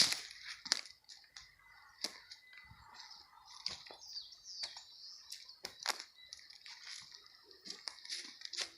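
Several kinds of forest birds calling and singing together, including a thin steady whistle in the first few seconds. Sharp crackles and clicks are scattered throughout.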